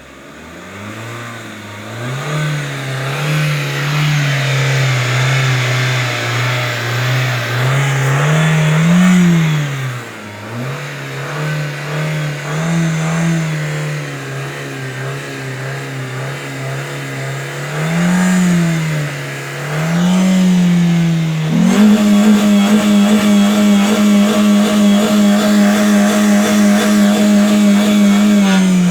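A car engine revved by the accelerator pedal. It climbs from idle and is held at raised revs with several quick blips up and back down. About three quarters of the way through it jumps to higher revs and is held there steadily.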